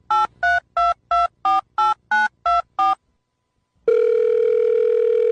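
Touch-tone telephone keypad dialing: about ten quick two-tone beeps, roughly three a second. After a short pause, a steady ringback tone sounds on the line for about two seconds.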